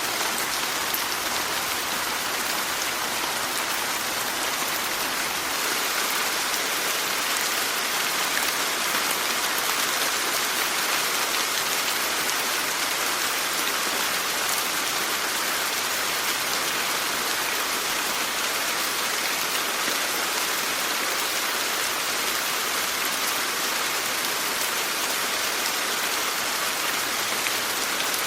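Steady rainfall, an even hiss of rain on surfaces that keeps the same level throughout.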